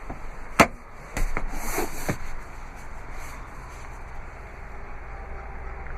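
Rear seat of a Jeep Wrangler being folded: a sharp click from the release lever about half a second in, then a rustle and a few knocks as the seatback tips forward, followed by a low steady rumble.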